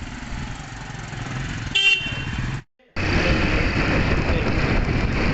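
Motorcycle running on the road, with a short horn toot about two seconds in; after a brief cut, louder steady engine and road noise.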